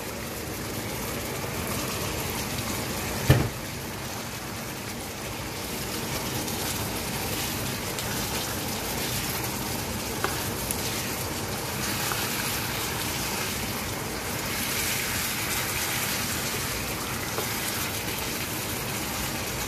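Chicken and julienned carrots sizzling in a wok as they are stirred, a steady hiss, with one sharp knock about three seconds in.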